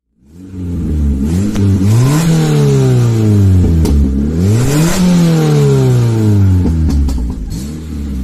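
Hyundai Coupe 1.6 16V four-cylinder engine revved twice from idle, heard close at the exhaust tailpipe. The pitch climbs to a peak about two seconds in, falls, climbs again to a peak about five seconds in, then sinks slowly back toward idle, with a small blip near the end.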